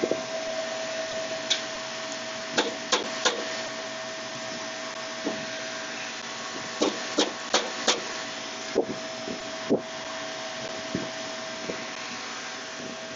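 Steady mechanical whir with a constant mid-pitched tone, broken by about a dozen sharp metallic clicks and knocks at irregular times, typical of hand tools on pulley hardware while a belt drive is being fitted.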